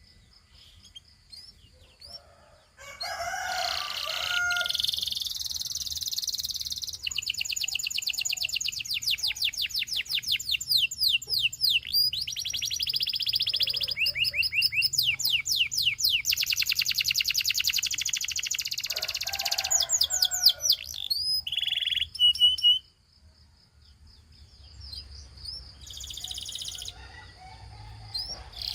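Gloster canary singing a long song of rapid trills: strings of quick repeated notes and fast rolling phrases. It starts about three seconds in and breaks off suddenly about 23 seconds in, with softer notes after and loud singing again near the end.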